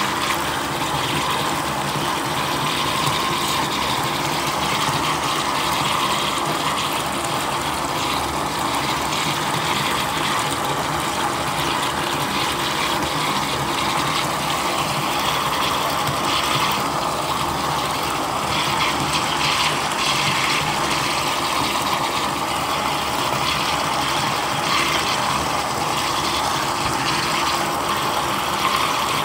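Steady rain falling: an even hiss with faint small taps of drops scattered through it.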